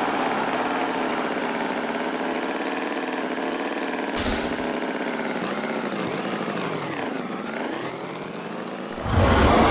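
An engine running steadily, its pitch dipping and rising again about seven seconds in. A louder, fuller sound comes in near the end.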